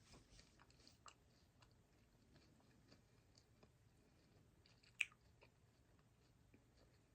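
Faint chewing of a small piece of candy, with soft mouth clicks scattered through and one sharper click about five seconds in.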